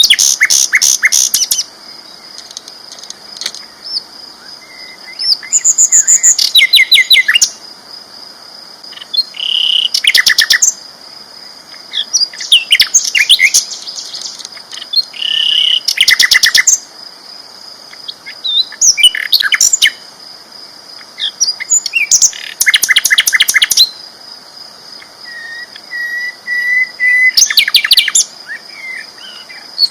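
A sikatan londo flycatcher singing loudly. It gives rapid, chattering bursts of song of a second or two each, every few seconds, over a steady high-pitched background tone.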